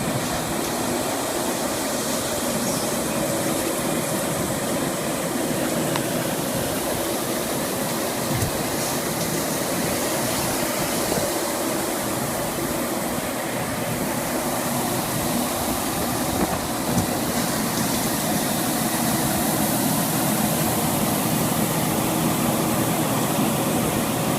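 Truck engine running steadily, a continuous even rumble with no pauses.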